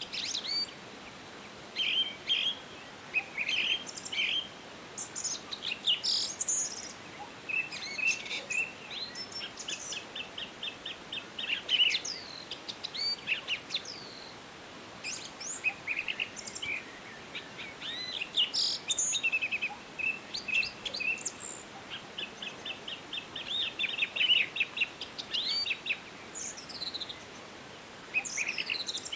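Several songbirds singing and calling in a forest: short whistled phrases and chirps from more than one bird, with a rapid, even trill twice, over a faint steady hiss.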